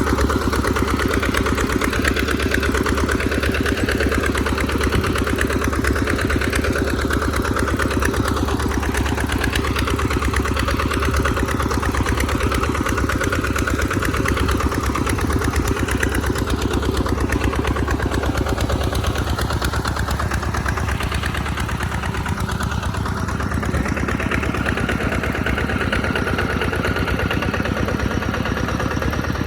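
Farm tractor's engine running steadily while plowing in mud, with only slight changes in pitch as the load varies.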